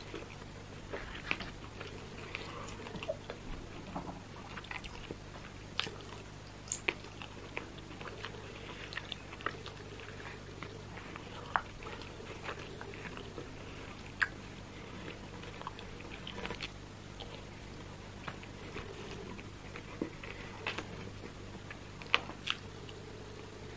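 Close-miked chewing and wet mouth sounds of someone eating roasted chicken, with many scattered sharp smacks and clicks. A steady low hum runs underneath.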